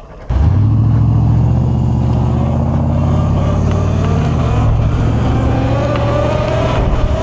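A motor vehicle running steadily close by, starting abruptly, with a fainter whine that slowly rises in pitch from about three seconds in.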